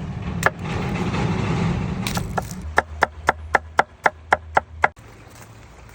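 A rustling hiss for the first two seconds, then a knife chopping on a wooden board: about nine quick, even cuts, roughly four a second.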